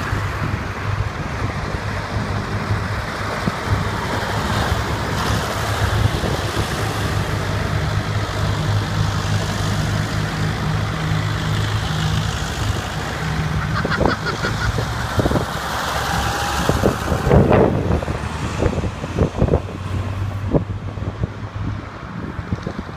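Tractor engines running steadily with a low hum, with a few sharp knocks and clatters about two-thirds of the way through.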